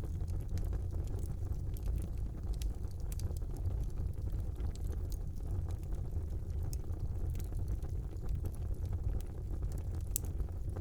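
Fire burning in a brick fireplace: a steady low rumble of flames with small crackles and pops scattered throughout, one sharper pop about ten seconds in.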